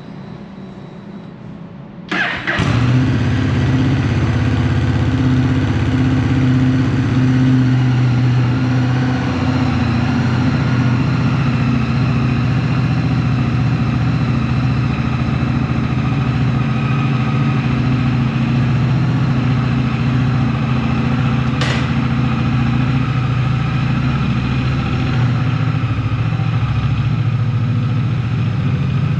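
Motorcycle engine started about two seconds in, then idling steadily, its note easing down a little several seconds later. A single sharp click comes about three-quarters of the way through.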